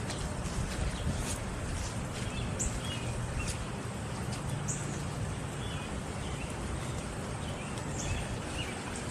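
Small birds chirping in short, scattered calls over a steady rushing of storm runoff water.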